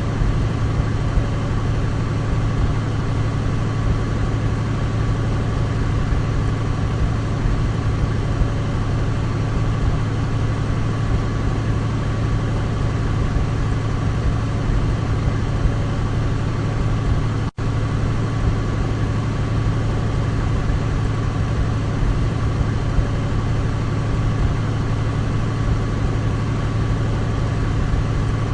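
Douglas DC-3's twin radial piston engines running in a steady, unchanging drone. The sound drops out for an instant about two-thirds of the way through.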